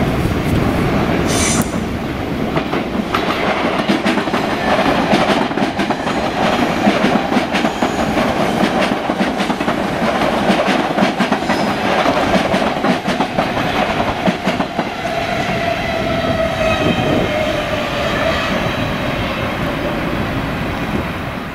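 Dutch NS ICM 'Koploper' intercity electric multiple unit running past on the adjacent track, its wheels clattering over rail joints and points, with a steady whine that drops slightly in pitch near the end.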